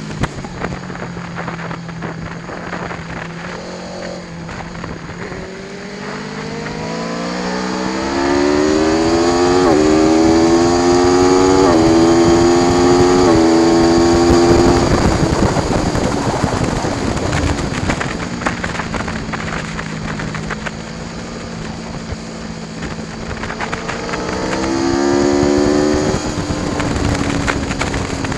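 Aprilia Tuono V4 1100 Factory's V4 engine accelerating hard through the gears, its pitch climbing with three quick upshifts about a second and a half apart, then dropping away as it slows, and climbing again near the end.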